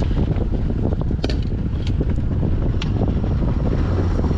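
Wind buffeting the microphone on an open boat, a loud steady rumble and rush, with a few sharp clicks.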